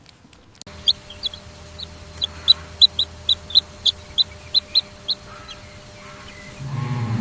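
Chicks peeping: short, high peeps, irregular at three or four a second, thinning out after about five seconds. A lower hen-like clucking sound starts near the end.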